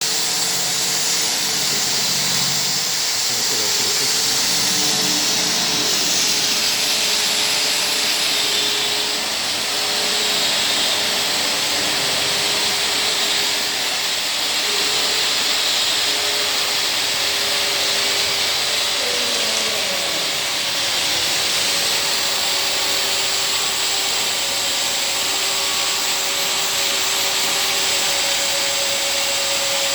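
Rotating ultrasonic vial washing machine running: a steady hiss with a low machine hum and a few faint tones underneath.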